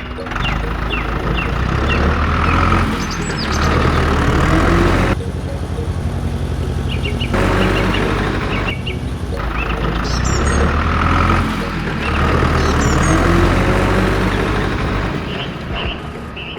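A motor vehicle engine running steadily, with birds chirping over it; the sound cuts off and resumes abruptly a few times.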